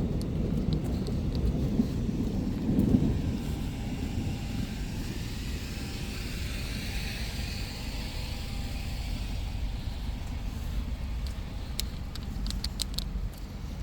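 Steady low outdoor rumble in rainy, stormy weather, loudest with a swell about three seconds in, then easing. A few sharp clicks come near the end.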